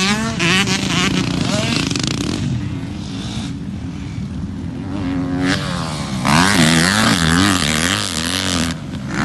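Motocross dirt bike engine revving up and down again and again as it is ridden, easing off in the middle and louder again from about six seconds in.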